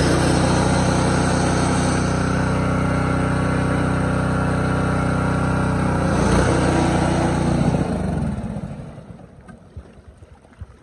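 A 14.5 horsepower Murray riding mower's engine running hard while it ploughs through a water-filled mud hole, then dying away about eight seconds in as water splashes straight into its airbox.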